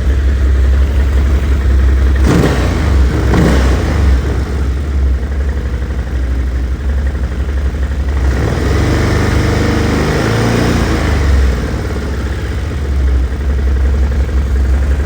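Stels Guepard 800 ATV engine idling with the knock the owner is showing, blipped sharply twice a couple of seconds in, then revved with changing pitch for about three seconds around the middle before settling back to idle.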